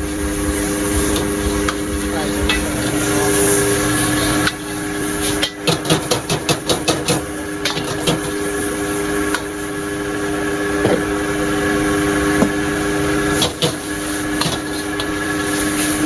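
Street-food stall cooking: a metal spatula clacks rapidly against a pan for a couple of seconds, about five seconds in, with a few single knocks later. Frying hiss, crowd chatter and a steady hum run underneath.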